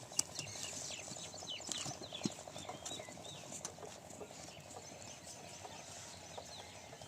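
Single-cylinder diesel pump engine running with a fast, steady rhythmic chugging, with birds chirping over it.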